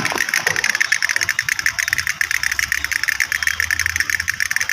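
A small battery-powered toy motor whirring steadily with a fast, even rattle. A low hum joins about two seconds in.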